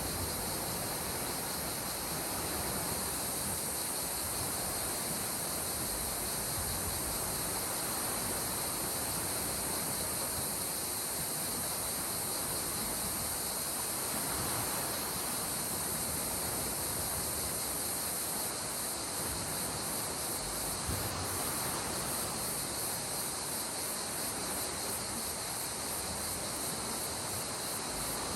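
Gentle sea waves washing in and out in slow swells, under a steady high chirring of insects.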